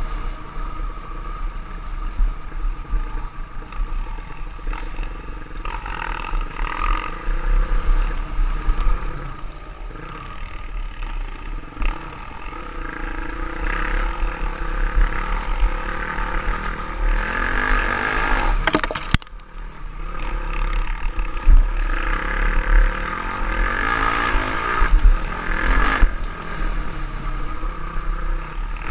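Off-road trail motorcycle engine running under riding load, its note rising and falling with the throttle over a steady low rumble, with a brief drop and a sharp knock about two-thirds of the way through.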